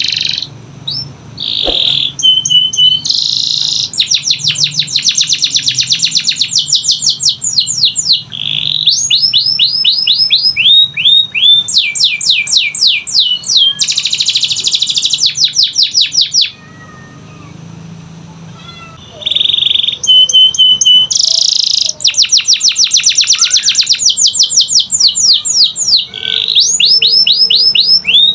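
Domestic canary singing: loud, fast rolls of rapidly repeated down-sweeping notes, each roll lasting a few seconds, broken by short pauses. The song goes quieter for about three seconds a little past the middle.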